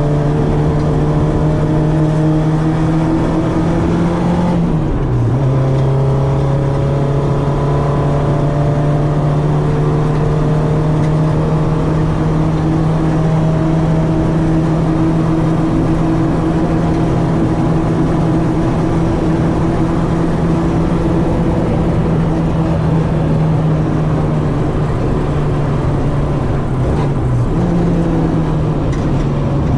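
Citroen AX's 8-valve four-cylinder engine, breathing through twin Weber 40 carburettors, running hard at near-steady revs. About five seconds in the pitch drops with a gear change, and near the end it jumps back up with another shift.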